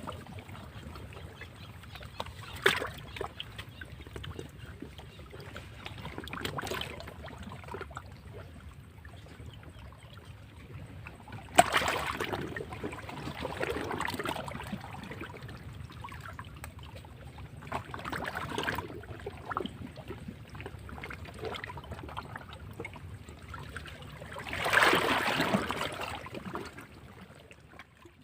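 Sea waves washing against rocks: a steady churn of water broken by repeated surges, with a sharp crash about twelve seconds in and a longer, louder swell near the end.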